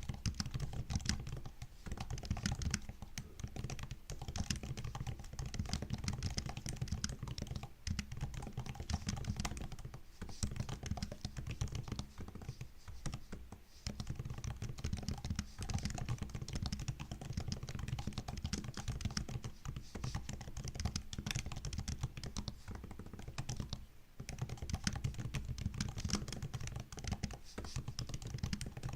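Continuous typing on a MacBook's built-in laptop keyboard: a dense, rapid patter of soft key clicks, with a few brief pauses between bursts.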